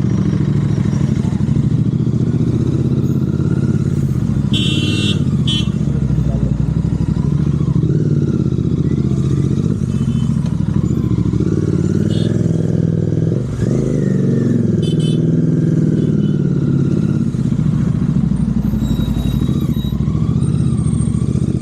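Royal Enfield Continental GT 650's parallel-twin engine running steadily through aftermarket Red Rooster exhausts while the bike cruises. Two short high-pitched sounds come about five seconds in and again about fifteen seconds in.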